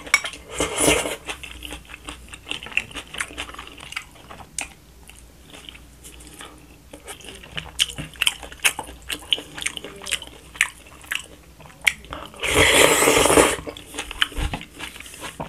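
Close-miked eating: chewing and crunching of jajangmyeon with its vegetables and seafood, with many small clicks of chopsticks and mouth sounds. There is a slurp from a bowl at the start, and a louder noisy sound lasting about a second near the end.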